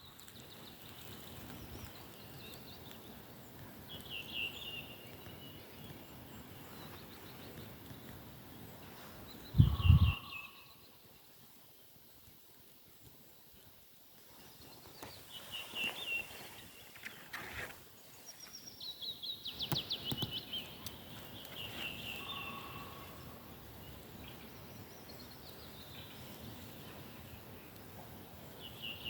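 Birds calling and chirping in short phrases every few seconds over steady outdoor background noise. A loud low thump about ten seconds in is the loudest sound.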